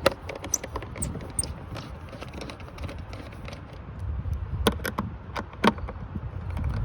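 Scattered light clicks and knocks of hands working loose fittings on a car's air-intake assembly, with a few clicks near the start and a quick run of them about two-thirds of the way in, over a low rumble.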